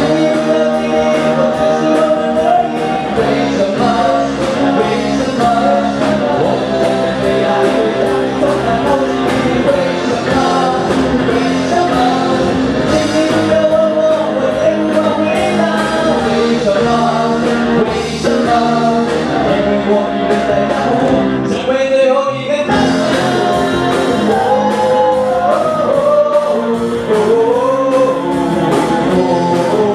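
Live band playing a song with singing. The music briefly drops back about two-thirds of the way through.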